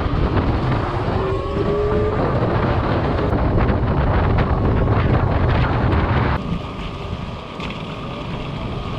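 Wind buffeting the helmet-mounted camera microphone while riding an electric motorcycle, over road and tyre noise, with no engine sound. The roar drops off sharply about six seconds in and goes on more quietly, as if the bike has slowed.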